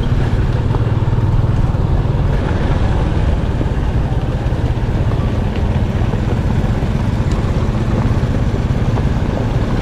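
Motorcycle engine running steadily while riding, a low hum under a constant rushing noise.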